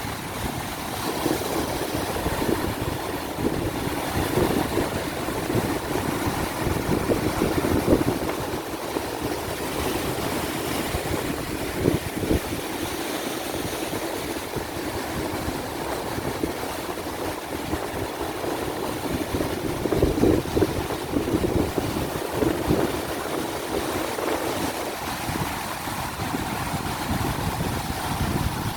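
Ocean surf breaking and washing on a beach, with strong wind buffeting the microphone in a low, gusty rumble. The waves swell louder about eight seconds in and again around twenty seconds.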